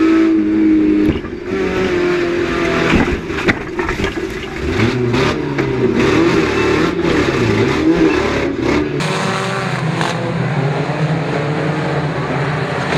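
Several 1600cc banger racing cars' engines revving and running around the track, pitch rising and falling. A cluster of sharp knocks comes between about three and nine seconds in.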